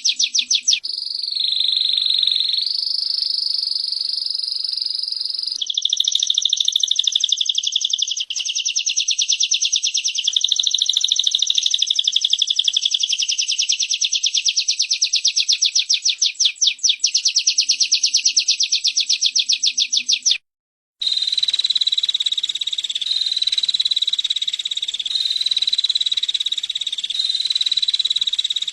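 Female prinia (prenjak) and canary song: fast, buzzing high trills of rapidly repeated notes. It breaks off for a moment about twenty seconds in, then goes on as a steadier high trill that steps up and down in pitch about once a second.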